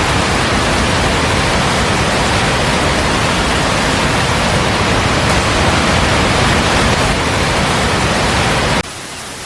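Loud, steady rush of water, with an abrupt cut to a quieter rush near the end.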